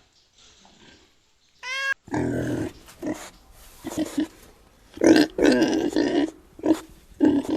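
Pig grunting: a run of short, irregular grunts starting about two seconds in, after a brief high-pitched call.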